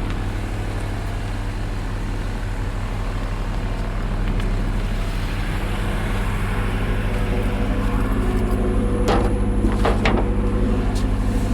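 Vehicle engine idling steadily, with a couple of sharp knocks about nine and ten seconds in.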